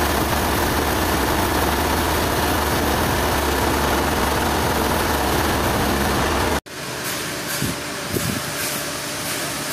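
A heavy engine running steadily, a low drone that cuts off abruptly about six and a half seconds in, giving way to a quieter background with a couple of faint knocks.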